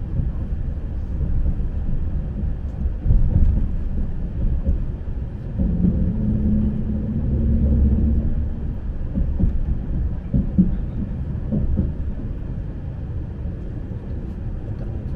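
Lastochka electric train running, heard from inside the carriage: a steady low rumble with a hum that rises in from about six seconds in and fades a couple of seconds later, and a few light knocks near the middle.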